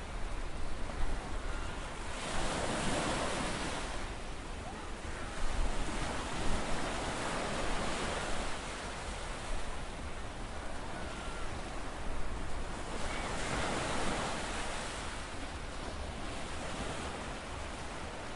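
Ocean waves washing in, swelling and falling back about every five seconds, with wind rumbling on the microphone.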